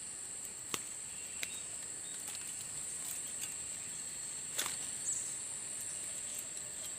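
Steady high-pitched drone of insects, with a few sharp clicks about a second in, a second and a half in, and near five seconds.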